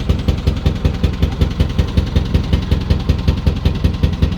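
Narrowboat's diesel engine running steadily while cruising, with an even beat of about four or five pulses a second. The engine has a fault that, in the owner's words, leaves it still going but not running as efficiently as it should.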